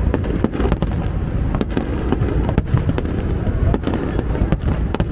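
Fireworks going off in quick succession: a dense run of sharp cracks and bangs over a continuous low rumble.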